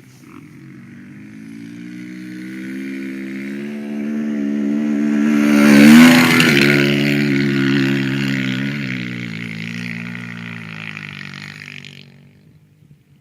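Motocross dirt bike engine coming closer, passing nearest about six seconds in with a drop in pitch, then fading away.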